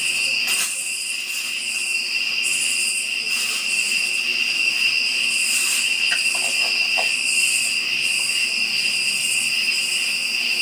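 Steady night chorus of insects: a continuous high-pitched trill, with a higher chirping that swells and fades about once a second.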